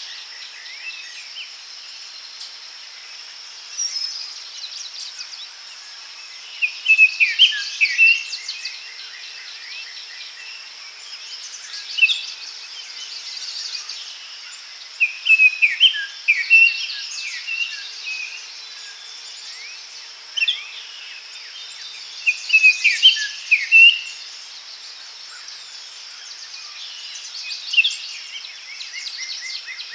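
Daytime forest ambience: songbirds singing short, chirping phrases every few seconds over a steady high insect drone.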